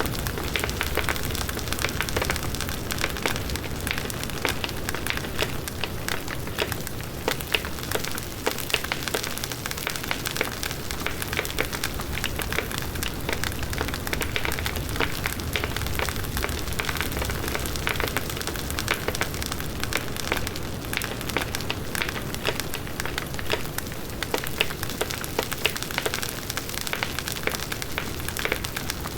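Large wood bonfire burning, its logs crackling and popping in a dense stream of small snaps over a steady low rush of flames.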